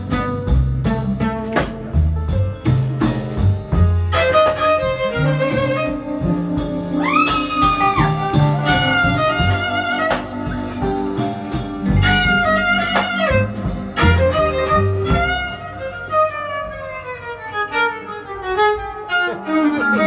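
Live instrumental break: a violin plays the lead melody with pitch slides over a low bass line, with a run of falling phrases near the end.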